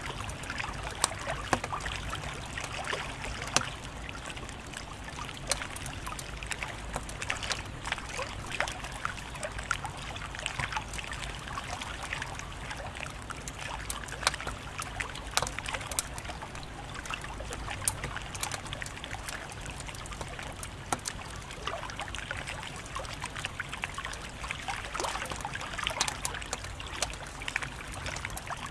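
Wood fire crackling steadily, with frequent sharp pops and snaps over a soft hiss and low rumble.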